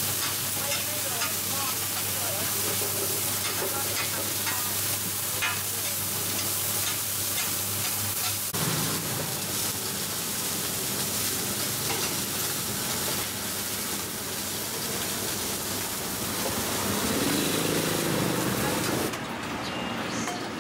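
Oil sizzling on a wide flat frying pan as crispy mussel and shrimp pancakes fry. A metal spatula scrapes and taps against the pan, with the taps clearest in the first half.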